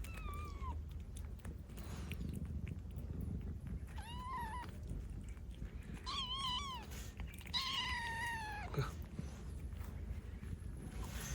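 A cat meowing four times, the last call the longest and held for about a second.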